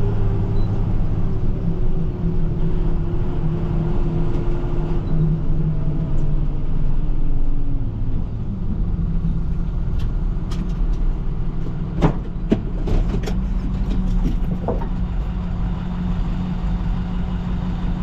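Plow truck's engine running steadily while driving, its pitch falling between about five and eight seconds in as the truck slows. A few sharp knocks or clicks come about twelve to fifteen seconds in.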